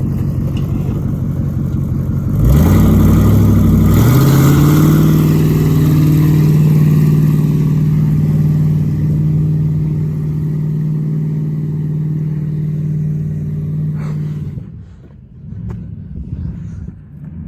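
A vehicle engine running at low speed revs up quickly about two and a half seconds in, then holds a high, steady engine speed for about ten seconds before the sound cuts away suddenly.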